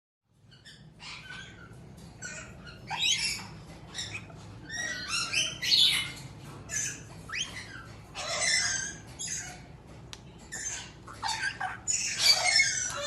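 Pet parrots chattering and squawking in a string of short, high-pitched calls, some sliding in pitch, loudest about twelve seconds in.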